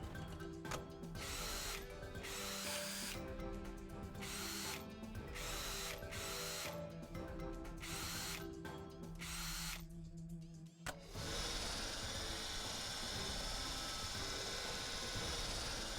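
A power tool running in repeated short bursts, each about half a second to a second long, over background music. A steadier high hiss follows from about eleven seconds in.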